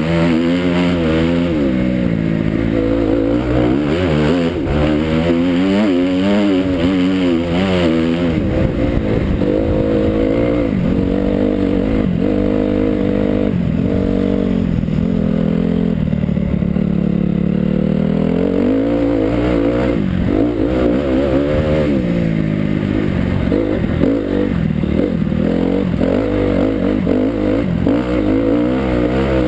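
Motocross bike engine running hard, its pitch rising and falling again and again as the throttle is opened and closed, with a longer drop and climb in revs about two-thirds of the way through.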